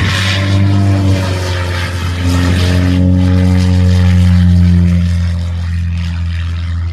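Propeller aircraft's piston engine droning loudly as it flies past, its pitch stepping up a little a couple of seconds in and then sliding gently down as it moves away.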